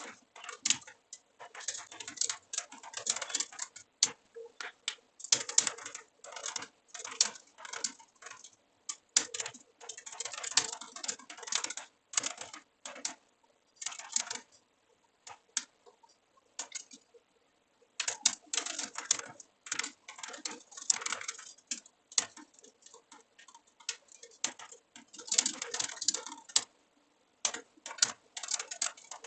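Typing on a computer keyboard: rapid key clicks in runs of several seconds, broken by short pauses.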